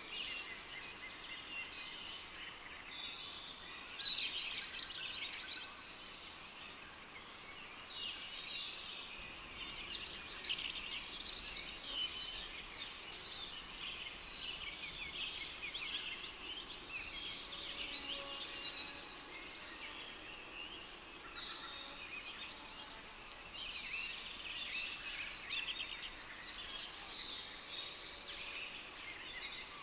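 Rainforest ambience. An insect, likely a cricket, chirps in a steady high pulse that breaks off twice for a few seconds. Birds call and chirp over it throughout.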